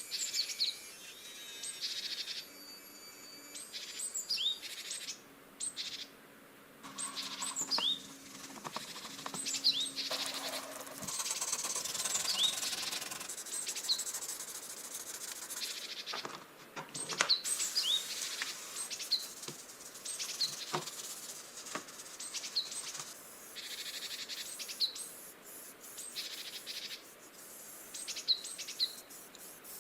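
A bird chirping again and again, short high calls that drop in pitch, over bouts of scraping or rasping noise.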